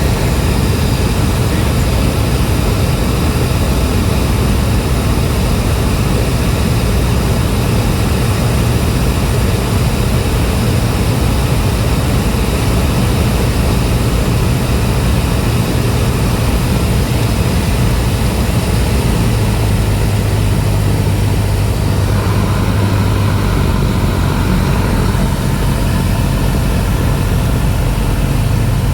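Cessna 172's piston engine and propeller running steadily and loudly, with the engine note shifting slightly about twenty seconds in.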